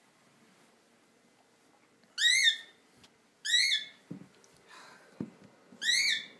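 Cockatiel calling: three loud, shrill calls, each a short note that rises and falls, the first about two seconds in and the others about a second and two and a half seconds later.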